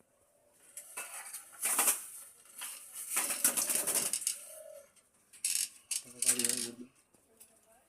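Parakeets being moved into a wire cage: irregular bursts of wire-cage clinking and rattling mixed with wing flapping, about four bouts over several seconds.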